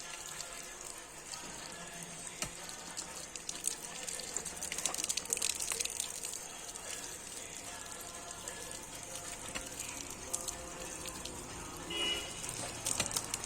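Running water, a steady hiss.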